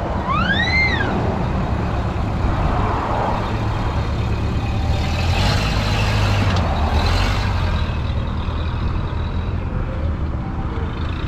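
Car engines running with a steady low rumble. Two short rising-and-falling chirps come right at the start, and a hissing swell rises and fades about five to seven seconds in.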